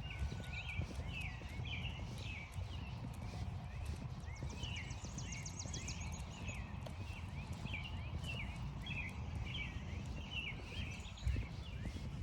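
Songbirds chirping over and over, with a rapid trill about halfway through, over crunching footsteps in frost-stiffened grass.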